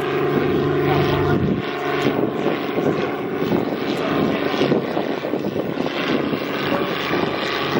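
A propeller airplane's engine going by: a steady engine tone for about the first second and a half, then a dense rushing noise.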